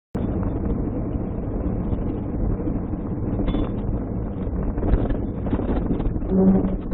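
Steady road and engine noise of a moving car, picked up by a dash cam microphone, with a few light knocks.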